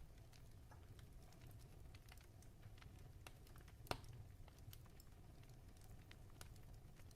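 Fireplace crackling faintly over a low steady rumble, with scattered irregular pops and one sharper pop about four seconds in.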